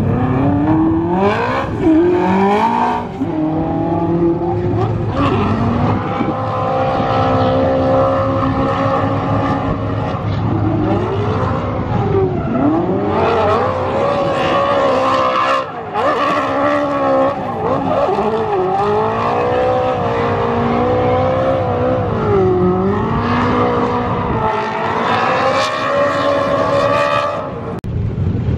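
Drift car running on track, its engine revving up and down as it is pushed through the corners, with tyres squealing.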